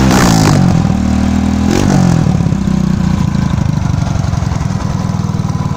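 Honda EX5 single-cylinder four-stroke engine, bored out to 59 mm and fitted with a modified exhaust, revved in throttle blips. One more short blip comes about two seconds in, then it settles to a steady, pulsing idle.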